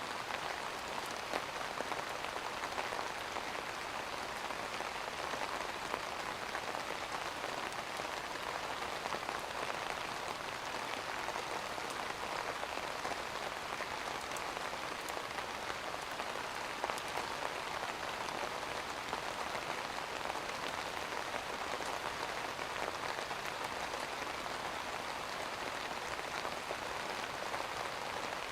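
Steady rain falling on a surface, a constant hiss with scattered tapping drops.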